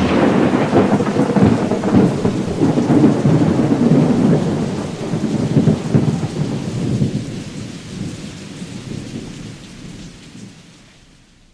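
Monsoon thunderstorm: a long rolling rumble of thunder over the hiss of rain, dying away gradually over the second half.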